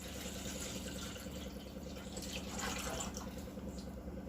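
Water being poured from a small metal water pot into a deep pot, a steady running fill.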